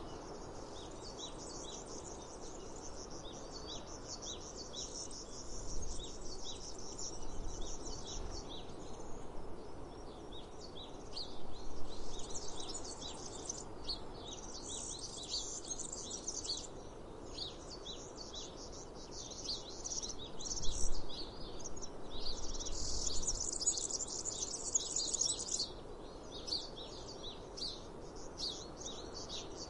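Outdoor ambience of many small birds chirping rapidly and continuously, with stretches of high, steady buzzing. A few soft low thuds stand out in two spells.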